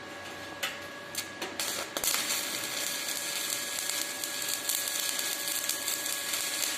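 Stick (shielded metal arc) welding arc: a few sharp crackles as the electrode is struck to start the arc, then from about two seconds in a steady, dense crackling as the arc burns. It is a short test run to check the amperage setting.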